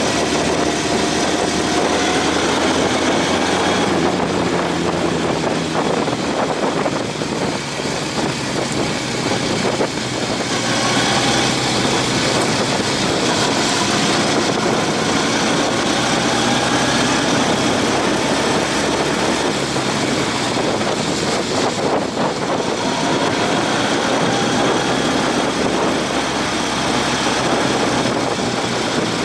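Motorcycle riding under way: the engine runs steadily beneath heavy wind rush on the microphone, its pitch drifting gently up and down with the throttle.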